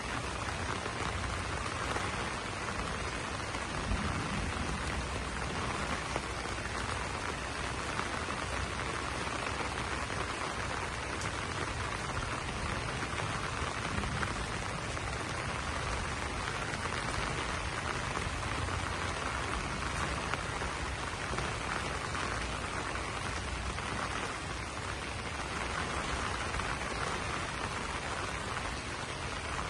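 Steady rain falling and pattering on banana leaves, an even, unbroken hiss of drops.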